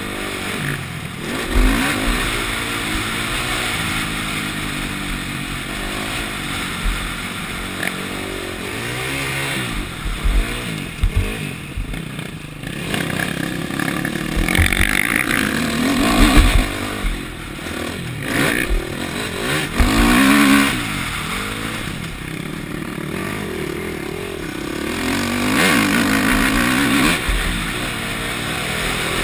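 KTM four-stroke motocross bike engine heard from on the bike, revving up and falling back again and again as it accelerates and shifts along the track. Occasional low thumps come through.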